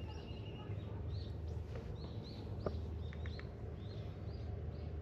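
Small birds chirping repeatedly in short, arched chirps over a steady low background rumble. A single sharp click a little past halfway.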